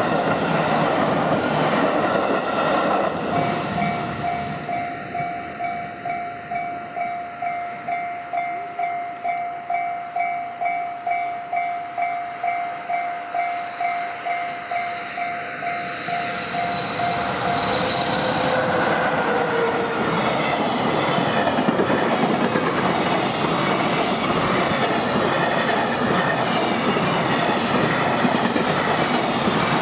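Electric train running by at the start. Then a railway level-crossing alarm rings in steady pulses, about two a second. From about halfway through, an EF66 electric locomotive and its container freight train roll past, loud and drowning out the alarm, with wheels clattering over rail joints.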